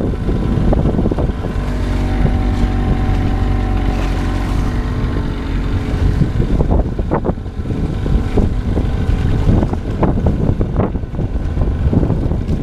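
Sailboat's inboard engine running steadily under way, with wind buffeting the microphone.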